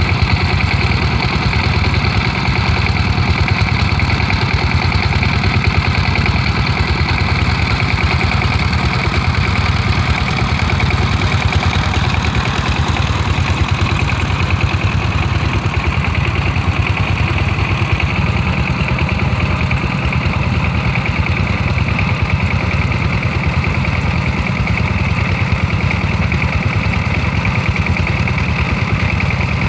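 Stationary Kubota and Dongfeng diesel engines running steadily with a fast, even beat, driving irrigation water pumps.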